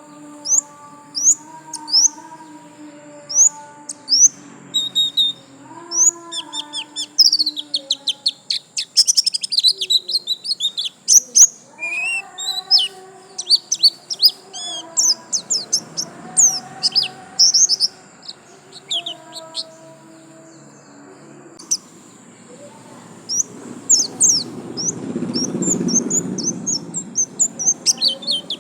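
White-eye (pleci, Zosterops) singing in rapid bursts of high, quick twittering chirps and trills, broken by short pauses. Steadier lower tones run underneath, and a low rumbling noise swells near the end.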